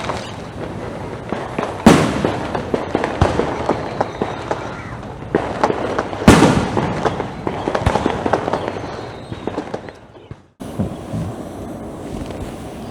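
Fireworks going off: two loud booms, about two seconds and six seconds in, each followed by quick crackling. The sound cuts off abruptly near the end and gives way to a steadier, quieter background noise.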